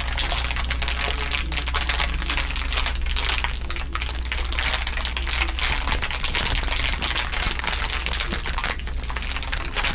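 Layered ASMR crinkling: a dense, continuous crackle of many small crinkles, over a low steady hum.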